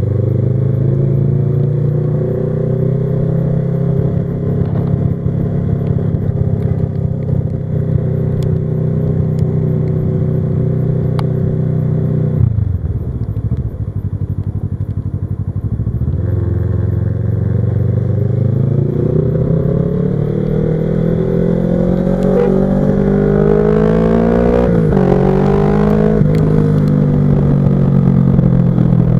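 Kawasaki Versys 650's parallel-twin engine under way: running at steady revs, then dropping off partway through, then climbing steadily in pitch as the bike accelerates, with a quick dip and recovery like a gear change before easing off near the end.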